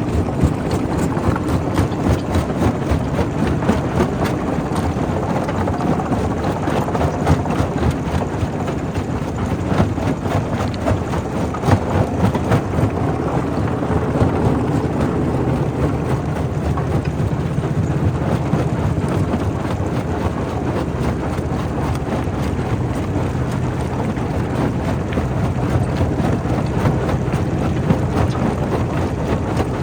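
Primary rock crusher running steadily at a quarry, with a continuous low mechanical drone and frequent sharp cracks and knocks of stone being broken and clattering through the machine.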